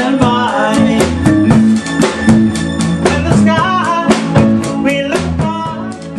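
A band playing music: drum kit with rimshots, snare and bass drum keeping an even beat under a bass line and a melody instrument, easing off a little near the end.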